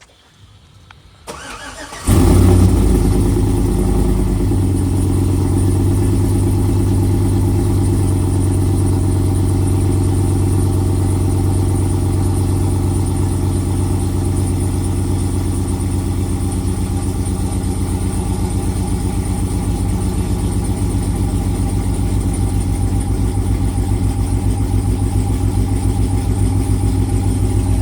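2007 Chevrolet Suburban's 5.3-litre V8, with a TSP Stage 2 low-lift cam, long-tube headers, no catalytic converters and the stock muffler and resonator, cold-starting. The starter cranks briefly and the engine catches about two seconds in, flares loud, then settles into a steady idle.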